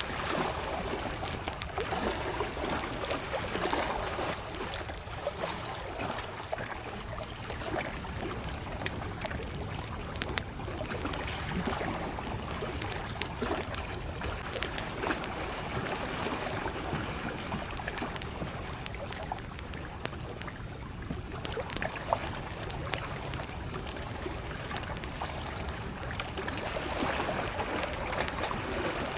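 Small lake waves lapping at the shore while a wood campfire crackles, with sharp pops scattered throughout and one louder pop about three-quarters of the way through.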